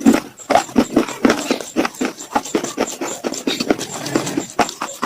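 Slate pencils bitten and chewed close to the microphone: quick, irregular crunches, several a second.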